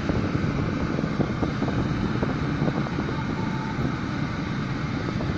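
Steady rumble of a vehicle on the move, with wind buffeting the microphone and many small irregular knocks throughout.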